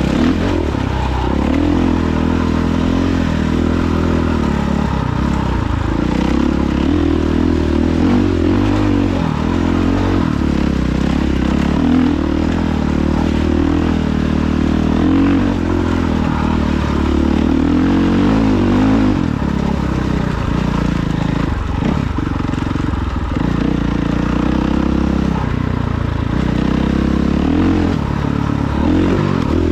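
Dirt bike engine running under way, its revs rising and falling continuously. It eases off about two-thirds of the way through, then picks up again.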